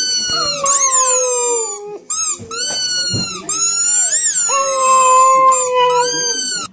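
A dog howling: several long, drawn-out howls that waver in pitch, with a short yip about two seconds in and a final howl held for about three seconds.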